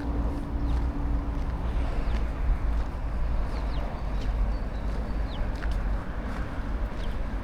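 Wind rumbling on the microphone outdoors, with several short, high bird chirps scattered through.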